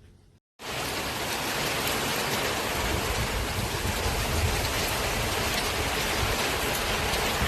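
Heavy rain falling in a steady, loud hiss that starts abruptly about half a second in, with gusty low rumbling underneath.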